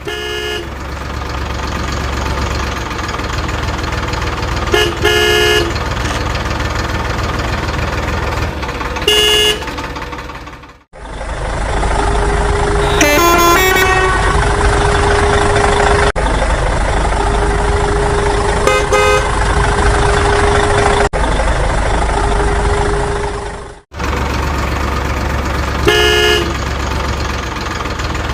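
Vehicle sound effects: an engine running steadily, with short horn honks every few seconds. The engine sound cuts out briefly twice.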